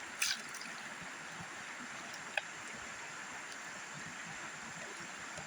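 Steady rush of river water flowing, with a short knock about a quarter second in and one sharp click about two and a half seconds in.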